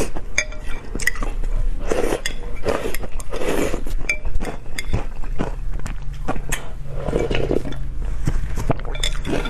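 Eating sounds with cutlery clinking against a dish in repeated short, sharp clicks, over a steady low hum.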